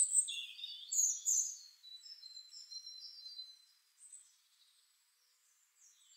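Small birds chirping and twittering, short high calls that die away after about three and a half seconds, with near silence after that.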